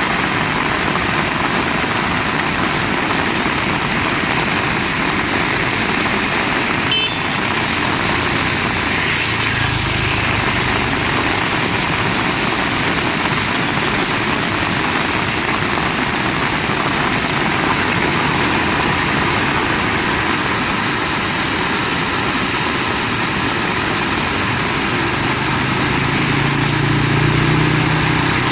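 Heavy rain falling steadily, a dense even hiss. There is a brief click about seven seconds in, and a faint low hum comes and goes twice.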